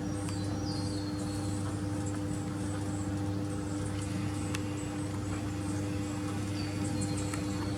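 Faint high bird chirps and short twittering notes, a few stepping down in pitch, over a steady low electrical hum.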